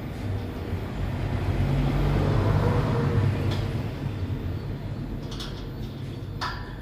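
A low rumbling noise that swells to its loudest about two to three seconds in and then fades, in the way a passing vehicle does, with a few short clicks near the end.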